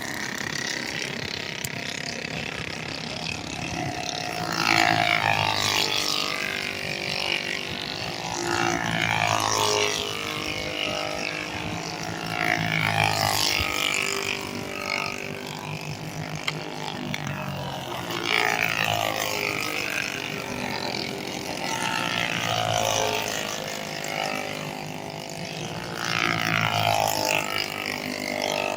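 Small single-cylinder racing engines running hard as machines pass on a track. There are about six loud passes, each swelling and falling in pitch, roughly every four to five seconds.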